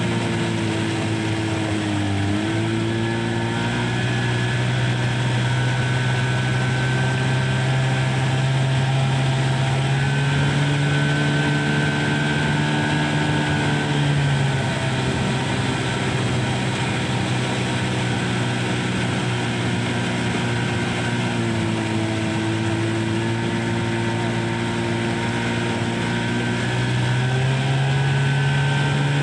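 An engine running steadily throughout, its pitch shifting up and down a few times as the speed changes, with a faint high whine over it.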